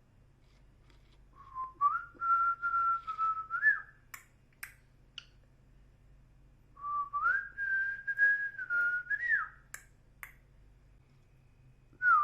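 Cockatiel whistling two long phrases, each a clear held note that slides up at the start and flicks higher at the end, with a short chirp near the end.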